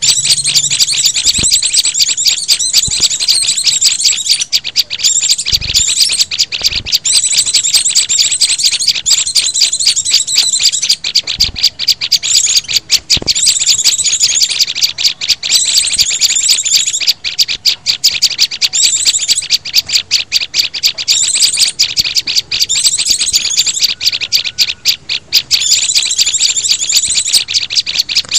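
Bird-luring recording of small songbirds (a mix of white-eyes, prinias, sunbirds and flowerpeckers): dense, rapid, high-pitched chirping and twittering that carries on almost without a break, with only a few short gaps.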